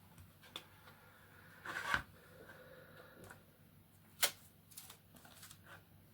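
Scattered light clicks and taps of hard plastic being handled, with a short scraping rustle just before two seconds in and one sharp click about four seconds in, as 3D-printed mask pieces are worked with a 3D pen.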